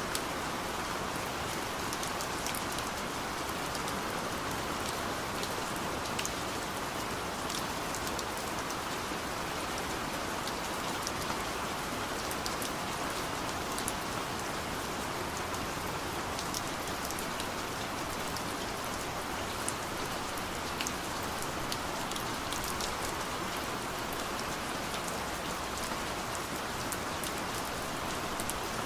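Steady rain on a car's roof and windows, heard from inside the cabin: an even patter with many separate drop ticks scattered through it.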